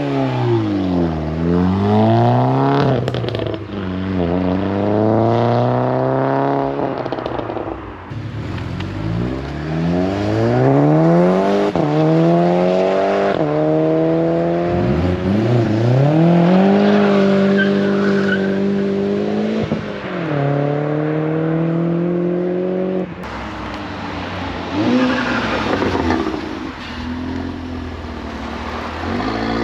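Car engines revving and accelerating as cars pull away, their pitch rising through the revs and dropping back again and again.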